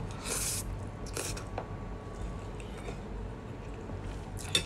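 A person eating a spoonful of tuyo (dried salted fish in oil): the spoon going into the mouth, then chewing the chewy fish, with a few short wet mouth sounds in the first second and a half and a click near the end.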